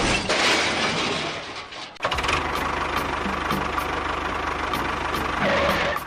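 A fading noisy crash-like sound, then from about two seconds in an engine running steadily with a fast, even chug.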